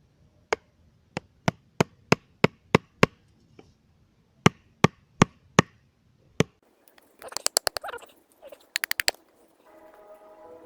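Wooden mallet, cut from a branch, knocking a staple made from a nail sharpened at both ends into sawn logs to pin them together: about a dozen sharp knocks in two runs, around three a second, followed by two quick rattles of clicks.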